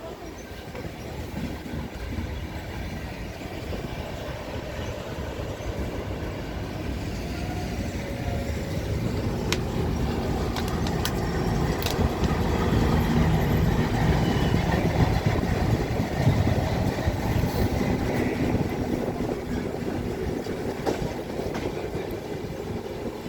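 Train running on its rails: a steady low rumble with wheel clatter that grows louder toward the middle and then eases off, with a few sharp clicks.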